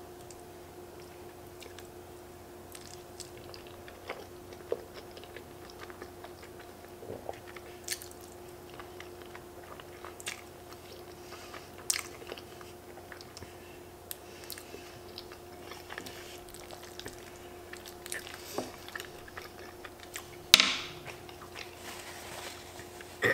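Close-up chewing of soft pasta in a creamy sauce, with small scattered clicks from a metal fork, over a steady low hum. A louder short rustle comes near the end as a paper napkin is handled.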